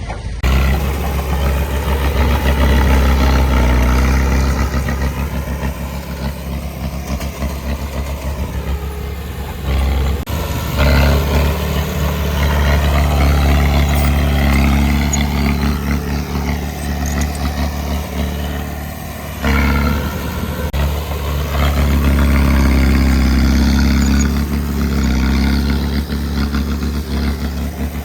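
Heavy diesel engine of earthmoving machinery running and working under changing load, its loudness swelling and easing, with two abrupt breaks in the sound.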